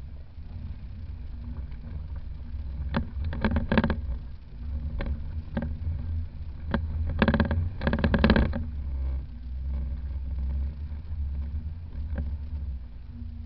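Jeep Cherokee XJ engine with extractor exhaust headers running with a steady low rumble at slow off-road pace. Two clusters of sharp clattering knocks come through, about three seconds in and again about seven seconds in, with a few single knocks between.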